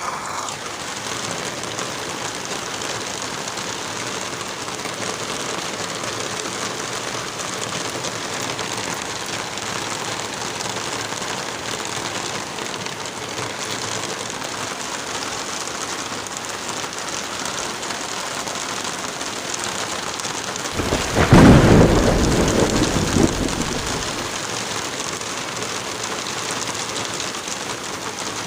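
Steady light rain and wind through forest trees, with one loud, low rumble of thunder about 21 seconds in that dies away over a few seconds.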